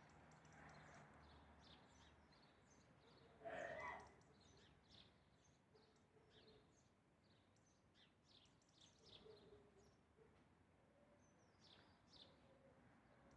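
Faint chirping of small birds, many short quick calls scattered throughout, with one louder brief sound about three and a half seconds in.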